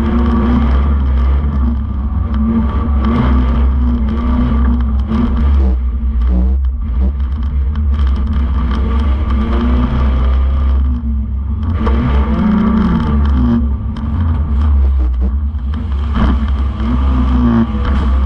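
Banger racing car's engine heard from inside its stripped shell, running hard with the revs rising and falling as it laps, easing off briefly about six and eleven seconds in.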